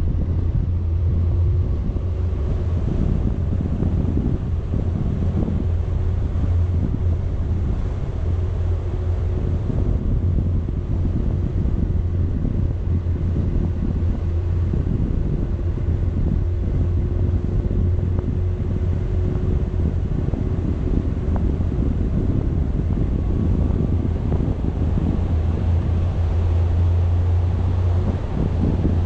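Wind buffeting an action camera's microphone on a moving vehicle, a steady low rumble with a faint constant hum underneath.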